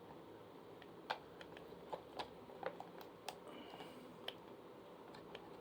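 Irregular light clicks and taps of plastic fan parts being handled and fitted together during assembly, with a brief faint squeak partway through.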